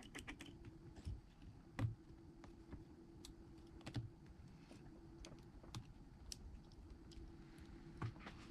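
Scattered light clicks and taps of small repair tools on the parts of an iPhone being taken apart, over a steady low hum.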